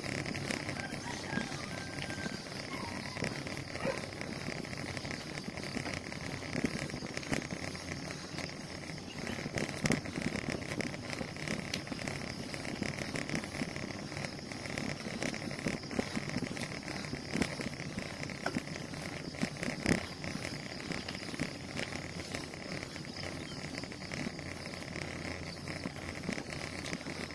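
Riding a bicycle along a road: a steady rush of tyre and wind noise with many small clicks and rattles from the bike.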